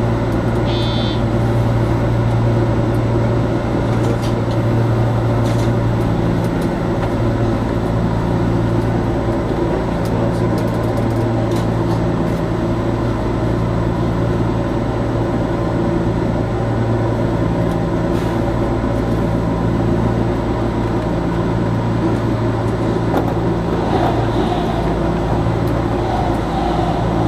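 Running noise heard inside a JR 415 series electric train as it travels along the line: a steady low hum over the rumble of the wheels on the rails. Near the end an oncoming train passes close alongside.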